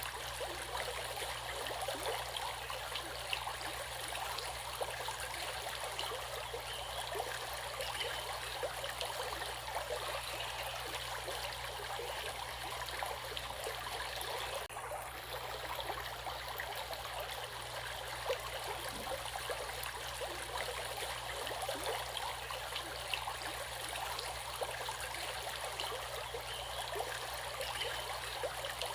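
Flowing water: a stream running steadily, with a dense spatter of small splashes and trickles. The highest part of the rush dulls for a moment about halfway through.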